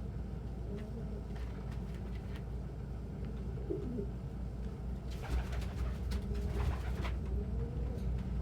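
Domestic pigeons cooing softly, a few low rolling coos over a steady low hum. About five seconds in comes a couple of seconds of rustling.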